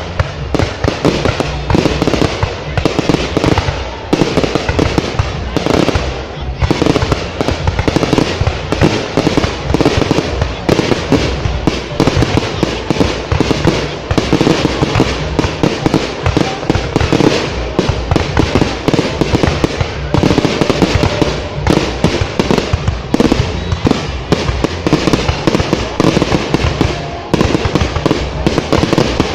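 Fireworks going off in a dense, continuous barrage: rapid overlapping bangs and crackling with no let-up.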